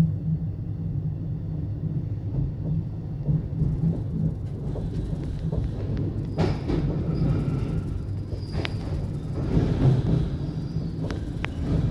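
Electric train running through a tunnel: a steady low rumble of wheels and motors, with a few sharp clicks in the second half as the wheels cross the points of a track junction.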